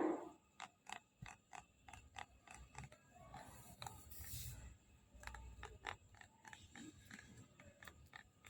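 Back panel of an iPad Air 5 clicking and creaking: a run of short, sharp clicks at irregular spacing, a few a second. It is a defect the owner traces to a hollow space in the back panel.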